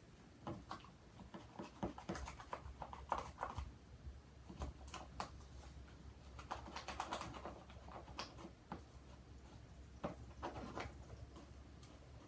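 Glue and shaving cream slime being stirred and worked in a bowl: faint, irregular sticky clicks and taps, over a low steady hum.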